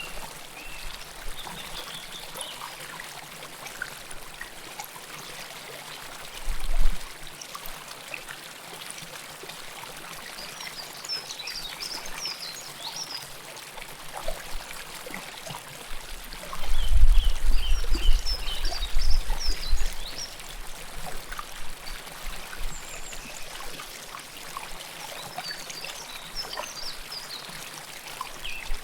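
River water flowing and trickling close to the microphone, a steady rushing babble. Short high chirps come in a few times over it. There are two low rumbles: a brief one about seven seconds in, and a longer, louder one from about sixteen to twenty seconds.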